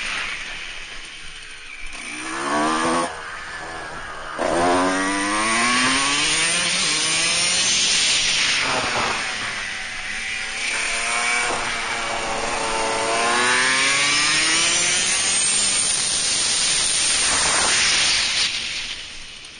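A 125 cc supermoto motorcycle engine at racing speed, heard from on board. It revs up over and over, the pitch rising and then dropping back at each gear change, and falls away about a second before the end as the throttle closes.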